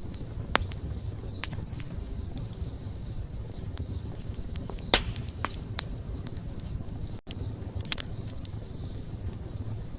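Wood campfire burning: a steady low rumble of flames with scattered sharp crackles and pops, the loudest about five seconds in. A split-second dropout comes a little past seven seconds.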